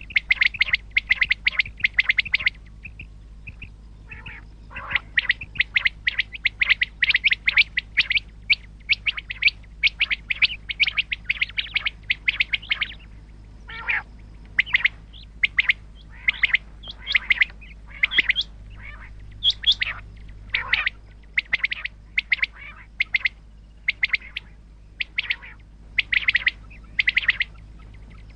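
Common quail calling: runs of short, rapid high notes, several a second, broken by brief pauses.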